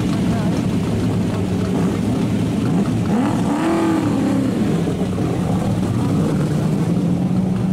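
Racing car engines running steadily, with one engine revving up and back down about three seconds in.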